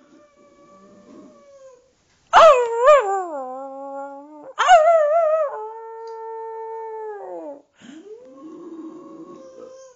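Boxer dog howling in long drawn-out howls. A loud, wavering howl begins about two seconds in and another follows about halfway through, each settling into a held tone, the second sliding down in pitch before a last howl rises near the end.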